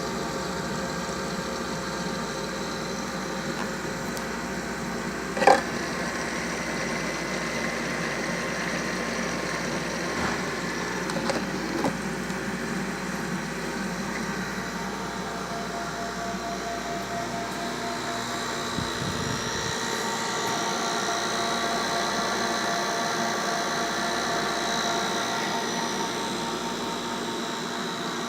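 Huber Ministat 230 cooling circulator running: a steady mechanical hum with several steady tones from its refrigeration compressor and circulating pump. A sharp click comes about five and a half seconds in and two lighter knocks around eleven seconds, and the tones shift from about sixteen seconds on.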